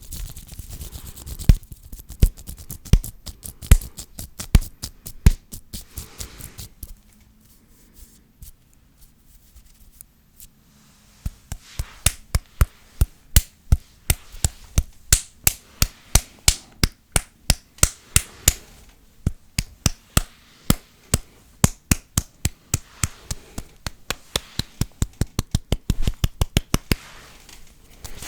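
Fast, sharp hand sounds close to a microphone: a run of crisp clicks about three a second, with a stretch of quieter rubbing about a third of the way through.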